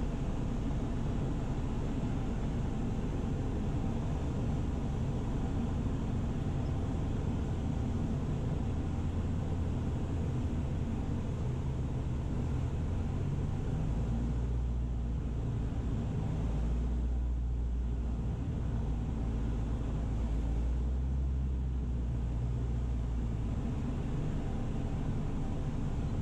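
Cessna 172's piston engine and propeller droning steadily in the cabin on final approach, still under power. The low drone swells for several seconds past the middle.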